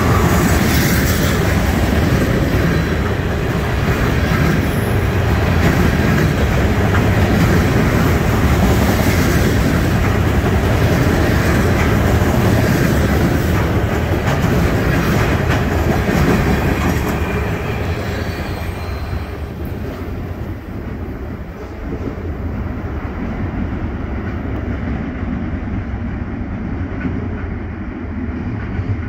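A loaded freight train of trash gondola cars rolling past close by: steady wheel-and-rail rumble with the wheels clacking over the rails. About seventeen seconds in, the sound fades and dulls as the end of the train passes and moves away.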